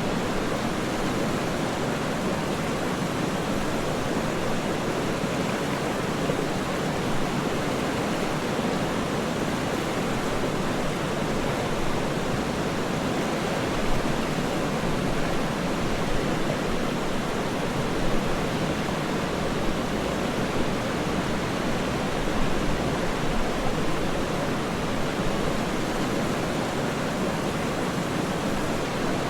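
Waterfall's steady, even rush of falling water, with small irregular surges.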